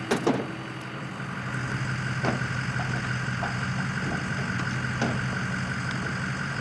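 Engine idling steadily at an even pitch, with a couple of sharp knocks just after the start and a few fainter clicks later.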